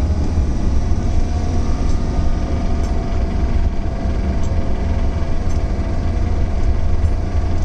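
1970 Lancia Flavia 1.8's flat-four engine running cold at about 2000 revs, heard from inside the cabin with the window shut, with the engine clatter still present. The clatter is just as loud as ever on fresh 20W-50 oil, so the oil change has not cured the knock and the owner sees it as needing a strip-down.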